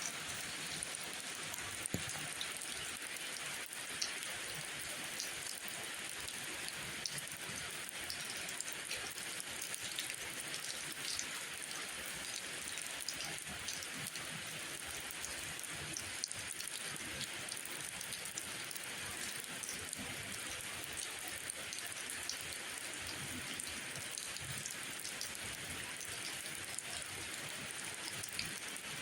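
Steady rainfall, an even hiss with many scattered sharp ticks of individual drops landing.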